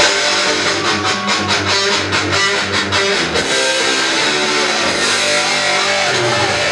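Live punk band playing loudly: distorted electric guitars and bass over a driving drum beat.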